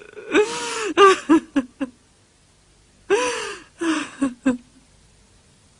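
A person crying in two bouts of sobbing. Each bout begins with a long drawn-out wail and breaks into short catching sobs.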